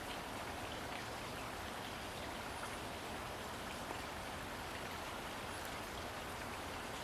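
Steady hiss of falling or running water with a faint light patter.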